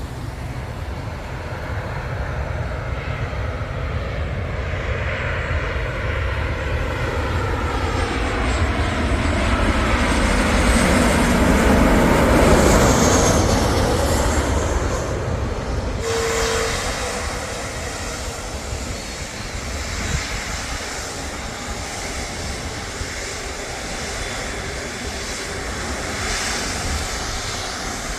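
Airliner passing low overhead on its landing approach. Its engine whine falls in pitch as it nears and passes, and it is loudest about twelve seconds in. It gives way abruptly to a steady, quieter rush after about sixteen seconds.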